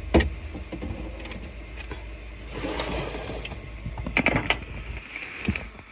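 Handling sounds while eating: a sharp click at the start, a short rustle in the middle and a few quick knocks about four seconds in, over a steady low hum.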